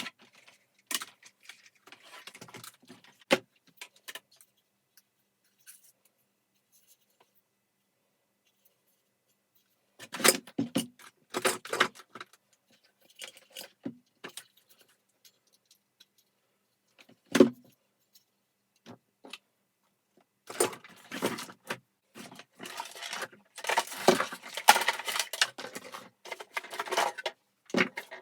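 Small hard parts being handled during a vacuum cleaner teardown: irregular clicking and rattling in short clusters, with a silent stretch of several seconds and the busiest rattling in the last third.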